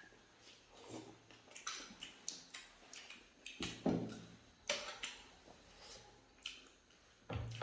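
Close-up eating sounds: irregular soft mouth clicks and smacks of someone chewing momos, about one a second, with a few louder ones.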